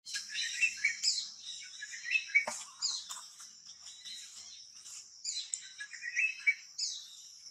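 Small birds chirping and whistling in quick, overlapping calls, some sliding in pitch, with a steady high chatter throughout.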